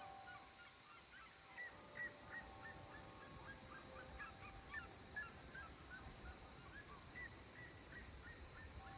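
Faint countryside dusk ambience: a steady high-pitched drone with many short, repeated animal calls scattered through it, a few each second.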